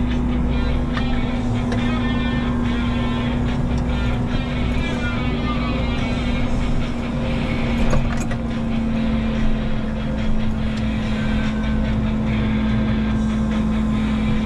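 Diesel engine and hydraulics of a Menzi Muck walking excavator running steadily under load, with occasional knocks. The engine note drops slightly about nine seconds in.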